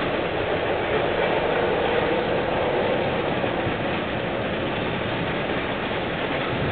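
A CFMG freight train of empty cars running past, with steady wheel-on-rail noise.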